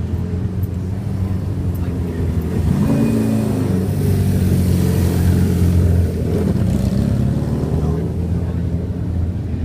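Motorcycle engines running, with a brief rev about three seconds in and louder running from about three to six seconds.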